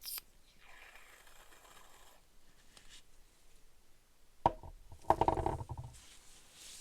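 Close-miked ASMR handling sounds: a soft rubbing or scraping rustle, then a sharp click about four and a half seconds in, followed by a brief rattling knock.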